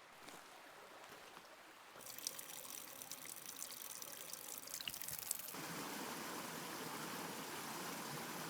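Running water of a forest stream, an even rushing hiss that comes in about two seconds in and grows fuller and louder about two-thirds of the way through, with a few light clicks.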